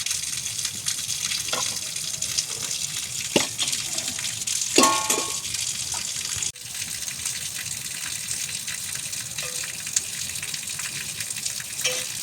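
Steady hiss of rushing water, with a few faint clicks and a short pitched sound about five seconds in.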